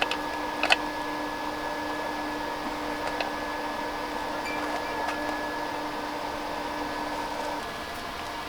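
A small electric fan running with a steady whirring hum, likely the fan of the tent's heater heat exchanger. A few light clicks sound over it, the sharpest about a second in. Its lowest tone drops out near the end.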